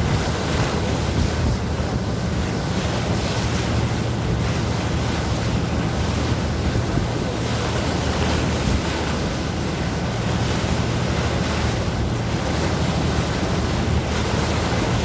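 Sea water rushing and splashing against a moving boat, over the steady low drone of its engine, with wind buffeting the microphone.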